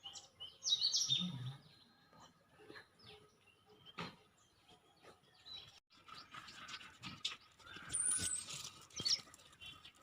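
Birds chirping in short, high calls, a burst about a second in and another near the end, with one sharp click around the middle.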